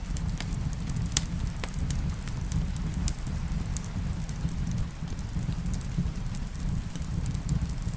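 Steady rain with a low, even rumble beneath it, and a wood fire crackling in a fireplace with scattered sharp pops, the loudest about a second in.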